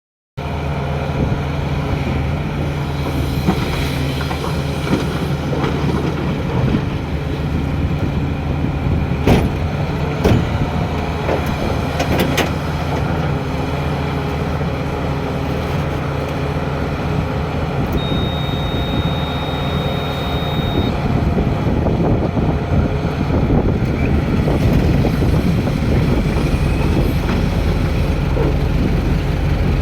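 Tata Hitachi Zaxis 650H excavator's diesel engine running steadily under load, with a few sharp metallic knocks around a third of the way in and a steady high beep lasting about three seconds past the middle.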